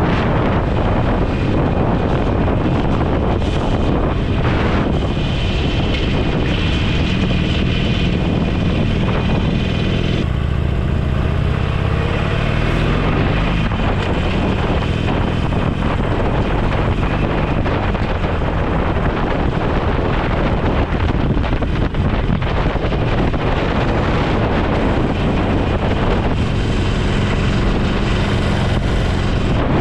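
Motorcycle engine running while riding, with heavy wind noise buffeting the microphone.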